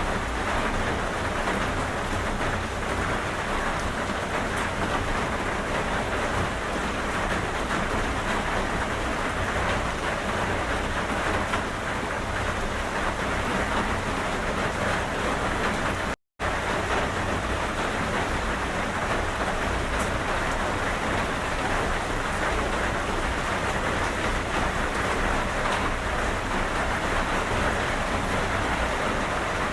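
Steady heavy rain pattering on a surface, an even hiss with a low rumble beneath, which cuts out completely for a split second about sixteen seconds in.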